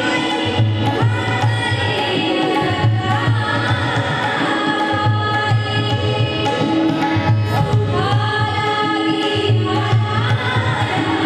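A woman singing a melodic song over a steady, repeating drum rhythm with deep bass strokes.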